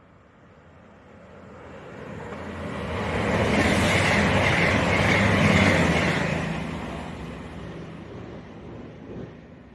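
CrossCountry Class 221 Super Voyager diesel-electric unit passing through the station at speed without stopping: its engine drone and rail noise build to a peak about four seconds in and then fade away as it recedes.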